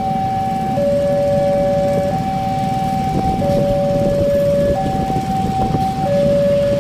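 Two-tone warning siren alternating between a high and a low note about every 1.3 seconds, over a steady low rumble.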